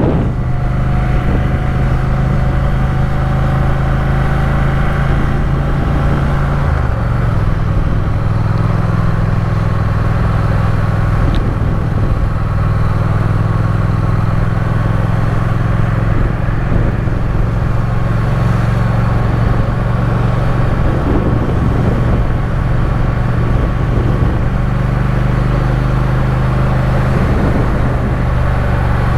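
Triumph Speed Twin parallel-twin engine running steadily under way, heard from the bike over wind and road noise, its note shifting once about seven seconds in.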